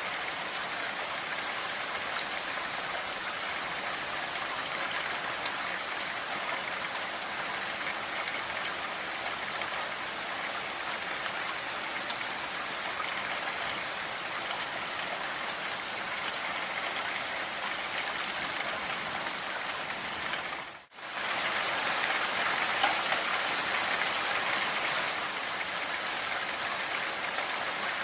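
Steady rain falling. About three quarters of the way through, it cuts out for a split second and comes back slightly louder for a few seconds.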